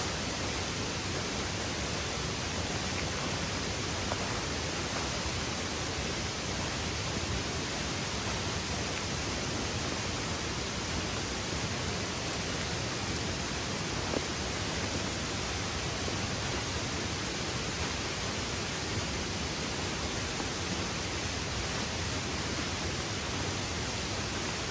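Steady rushing of water, heavy rain and a waterfall blending into one even hiss, with a single faint tap about two-thirds of the way through.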